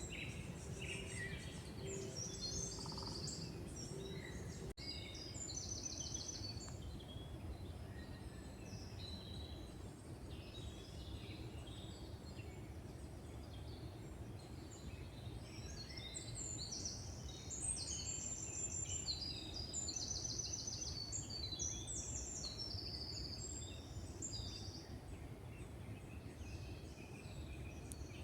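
Several songbirds singing in woodland, with short chirps and fast repeated trills, busiest in the second half, over a steady low background rumble.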